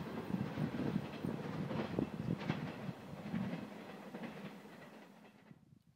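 Train wheels clattering over the rails, fading away as the train recedes, then cutting off abruptly near the end.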